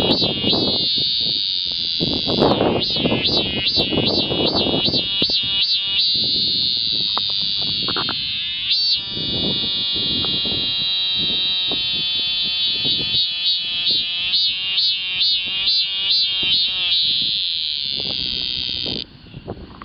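Male robust cicada (Hyalessa maculaticollis) singing its mating call: a loud, high buzzing song that pulses rapidly, about three beats a second, then swells into long steady stretches, several times over. The song cuts off suddenly near the end.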